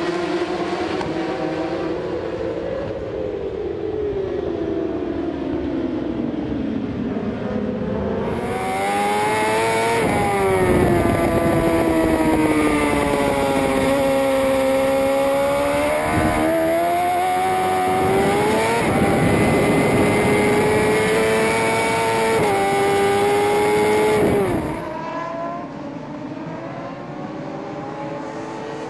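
Superbike racing motorcycle engines at high revs on track, the pitch rising and falling as the riders accelerate, brake and shift gears. A closer, louder bike dominates the middle stretch, with a sharp drop in pitch at a gear change shortly before it fades.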